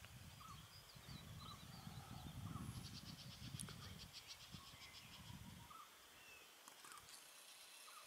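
Faint outdoor birdsong: one bird repeats a short call about once a second, with other high chirps and a quick trill a few seconds in. Under it runs a low rumble that stops about six seconds in.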